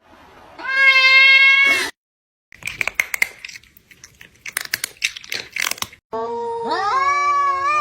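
Cat sounds from a cat-meme soundtrack. First a held call at an even pitch, then a few seconds of rapid crunching clicks like a cat chewing, then a long meow that wavers and falls in pitch near the end.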